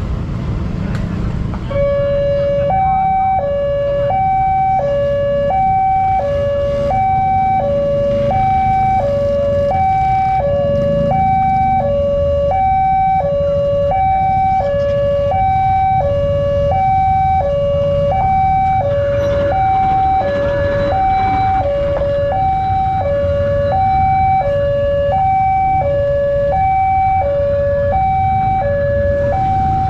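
Electronic railway level-crossing alarm, the electric replacement for a broken mechanical crossing bell, sounding a steady two-tone high-low warble about once every second and a half. It starts about two seconds in, over a low traffic rumble.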